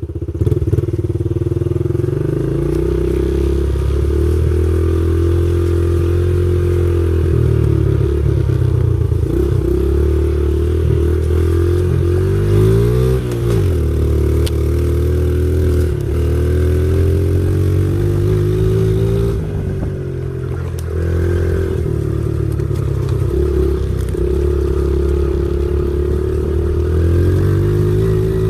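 Pit bike engine running under a rider, its pitch rising and falling as the throttle opens and closes. The pitch drops sharply and climbs back about 13 seconds in.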